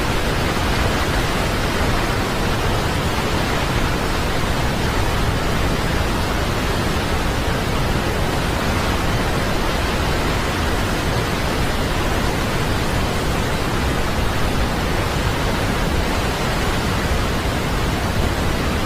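Steady roar of a waterfall: an even, rushing noise that holds level without change.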